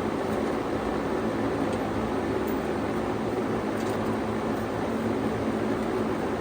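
Band sawmill running steadily, a constant machine drone with no change in pitch.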